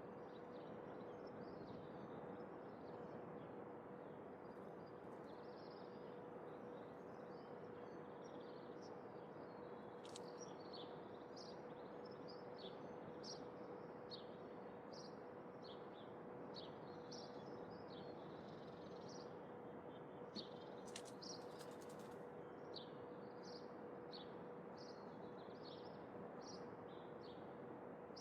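Small birds chirping faintly, many short high chirps scattered throughout, over a steady background hiss with a faint steady hum.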